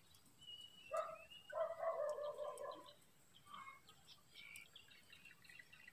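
Faint bird calls: a short call about a second in, then a longer, steady-pitched call lasting just over a second, with fainter chirps after it.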